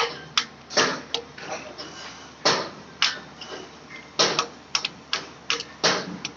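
Irregular series of sharp knocks and clicks, about one or two a second, from tools striking metal parts during work on a hydraulic jack cylinder.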